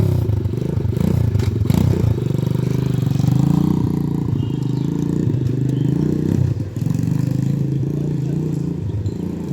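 A 125cc dirt bike's engine running, its pitch rising and falling as the revs change.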